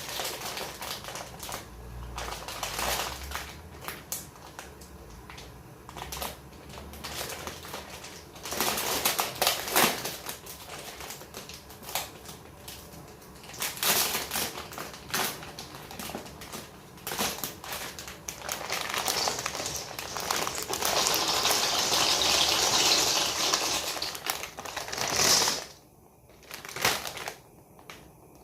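Plastic packet of dry shell pasta crinkling and the hard shells clicking and rattling as they are handled and tipped out. There is a longer, steady rattling run a little past the middle.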